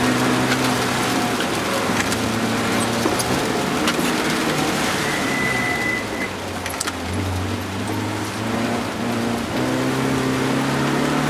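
BMW E30 318is's 1.8-litre M42 four-cylinder engine heard from inside the cabin, running hard on a wet road over a steady hiss of tyres and rain. The engine note drops and quietens about six seconds in, then climbs again near the end, with a brief high whistle around the middle.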